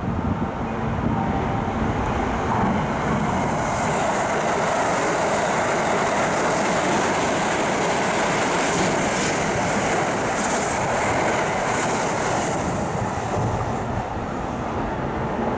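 Kintetsu limited express electric trains passing through the station at speed without stopping: a steady rush of wheels and running gear that builds a few seconds in and fades near the end.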